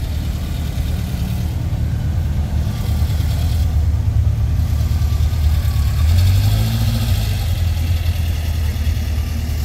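A Volkswagen Beetle decked out as Herbie drives slowly past with its engine running, its pitch rising a little about six seconds in.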